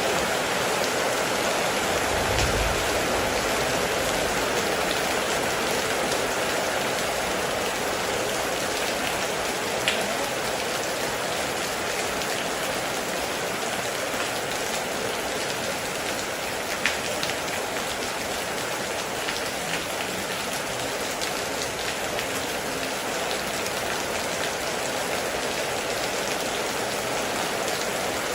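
Heavy rain falling steadily in a dense, even patter, with a few sharper single drop strikes about ten and seventeen seconds in.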